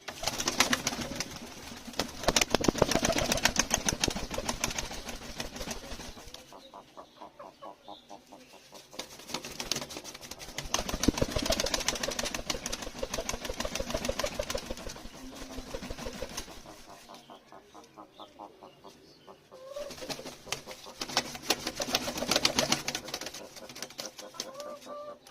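A pet bird making three bouts of rapid clicking, with a few short calls near the end.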